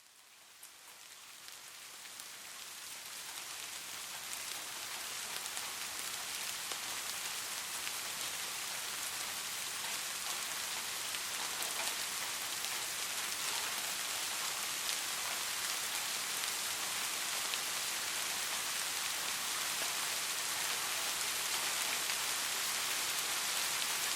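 Steady rain falling: a dense hiss with scattered individual drop ticks, fading in from silence over the first few seconds and then holding level.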